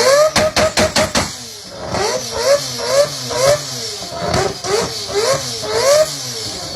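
Mazda RX-7 rotary engine revved in quick repeated blips, about two a second, each one rising and dropping in pitch. A burst of sharp exhaust pops comes in the first second.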